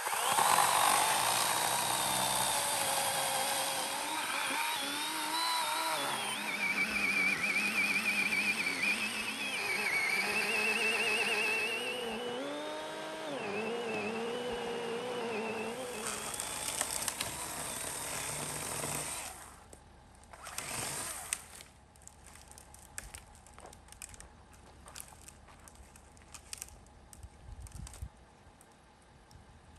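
Small battery-powered chainsaw cutting into a large fallen tree trunk, its motor whine wavering and dipping in pitch as the chain loads in the cut. It stops about 19 seconds in, runs again briefly a second later, then only scattered small clicks and knocks follow.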